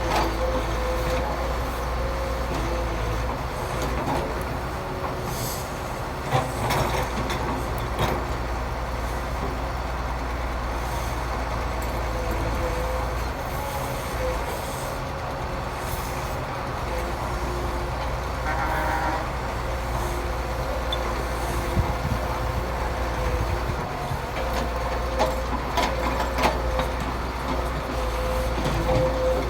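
Diesel engines of excavators and dump trucks running steadily on a work site, a low drone with a steady whine over it. A few sharp knocks and clanks come through, and a brief higher tone sounds a little past halfway.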